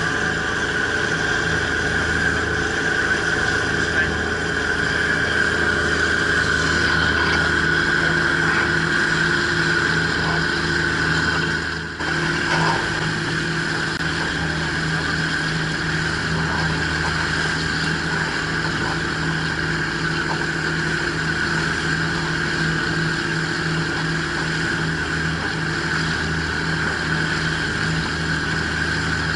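Ferry boat's engine running steadily under way, a constant hum with water and hull noise, heard on board; the sound dips briefly about twelve seconds in.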